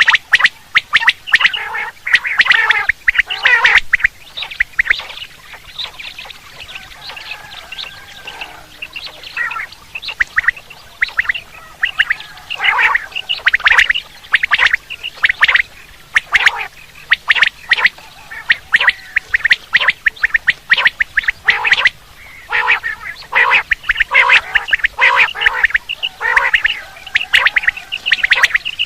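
Quail (batair) calling: rapid clusters of short, sharp notes repeated in bursts with brief pauses between them. This is a lure call recording for quail hunting.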